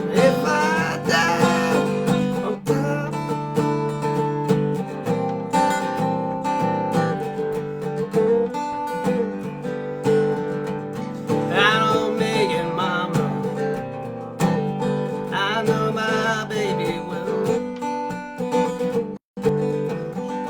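Dobro resonator guitar played with a slide in a blues jam: sustained plucked notes with wavering, sliding pitches. The sound cuts out for an instant near the end.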